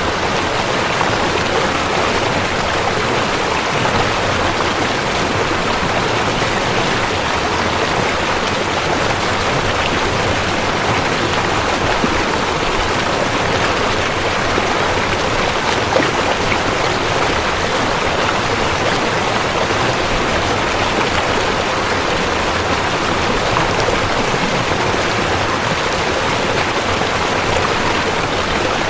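Steady rushing and splashing of a flowing river.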